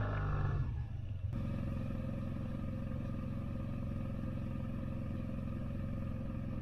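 SYM MaxSym TL maxi-scooter engine running at a steady, unchanging pitch, with a sudden change in the sound about a second in.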